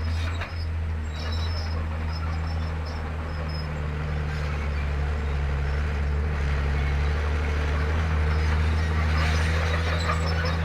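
Komatsu D31P bulldozer's diesel engine running steadily, a continuous low drone that grows a little louder about eight seconds in.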